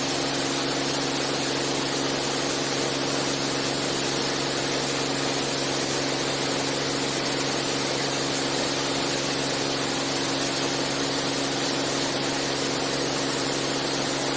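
Steady drone of a Beechcraft A36 Bonanza's six-cylinder piston engine and propeller, heard inside the cockpit in flight, with an even rushing hiss of air and engine noise and no change in pitch.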